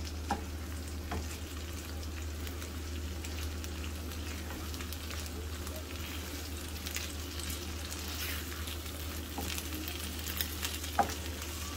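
Saag of mustard greens sizzling gently in desi ghee in a frying pan while it is stirred and spread with a silicone spatula, with scattered light ticks of the spatula on the pan and a sharper tap about 11 seconds in.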